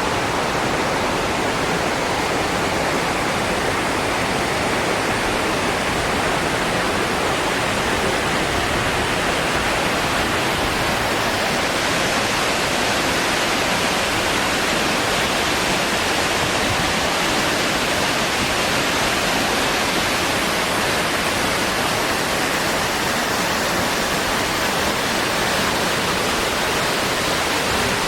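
Waterfall with a steady, unchanging rush of falling water.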